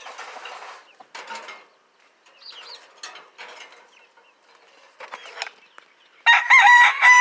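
Budgerigars chirping and chattering in short bits with scratchy rustles, then a loud squawking call with a wavering pitch starting about six seconds in.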